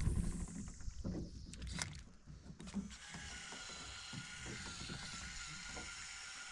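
Low knocks and clunks of gear and oars moving in a drift boat, with a few sharp clicks, over the first three seconds, then a steady faint outdoor background hiss.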